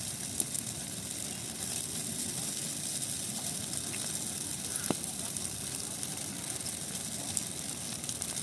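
Large bonfire of dry Christmas trees burning: a steady hiss of flames with fine crackling and scattered pops, one sharper pop about five seconds in.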